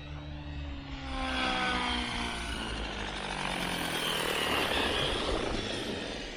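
Synergy E5 electric R/C helicopter in flight: its motor and rotor whine falls in pitch over the first couple of seconds, then gives way to a louder rushing blade noise that holds and fades near the end.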